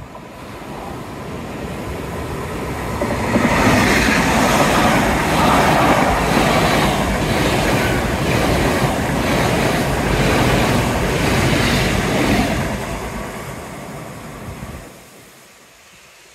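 Great Western Railway Intercity Express Train passing close by on its diesel engines. The sound builds over the first few seconds as it approaches, is loudest as the carriages rush past with a regular beat of wheels on the rails, then fades away as it recedes.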